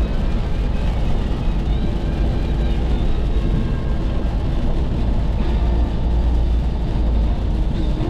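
Road noise from a car moving at highway speed: a steady low rumble of tyres and engine.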